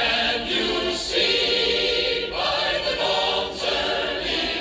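A choir singing a song, with sustained voices throughout.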